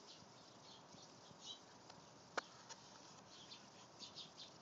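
Near silence with faint, scattered high chirps of distant birds and one sharp click about two and a half seconds in.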